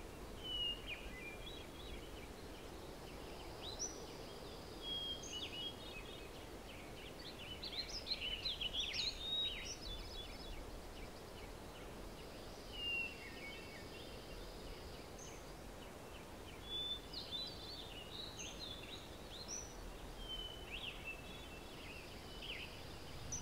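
Small birds chirping and twittering in short bursts, a few calls every couple of seconds, over a faint steady outdoor background hum.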